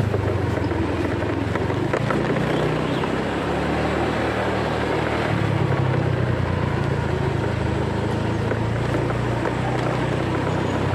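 Motorcycle engine running steadily while riding, under a haze of road and wind noise.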